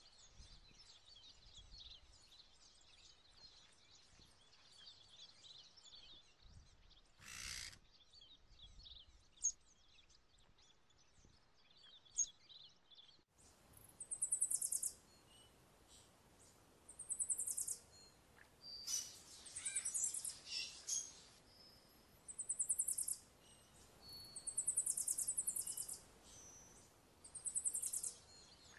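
Birds chirping: many faint, short high chirps, then about halfway through a run of louder, high trilled calls that repeat every second or two.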